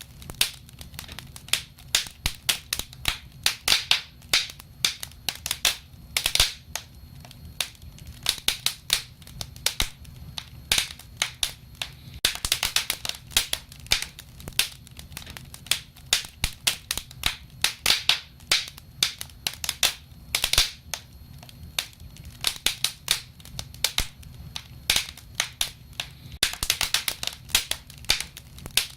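Wood fire crackling: a dense run of irregular sharp pops and snaps, some in quick clusters, over a low steady rumble of burning.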